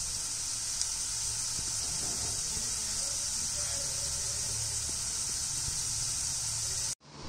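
Potato chunks sizzling in hot oil in a frying pan: a steady hiss that cuts off suddenly near the end.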